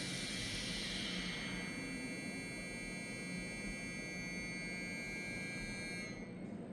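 Several steady high-pitched electronic tones held together, cutting off about six seconds in.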